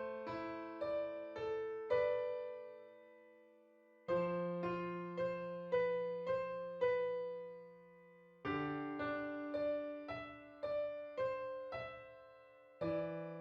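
Solo piano playing a slow, gentle melody of single notes over held bass notes, in three phrases, each fading away before the next begins.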